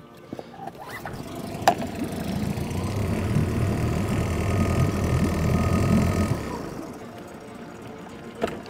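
A motor vehicle engine running, growing louder over a few seconds and then fading away, with a few sharp clicks.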